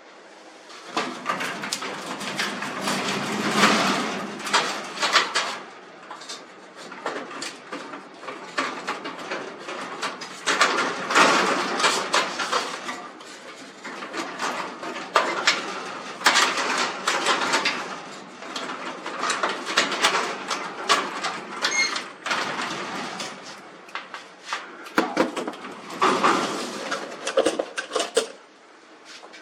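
Metal clattering, clicking and scraping in uneven bursts from hands-on work on garage door hardware: rollers, brackets and track being handled, with tools knocking.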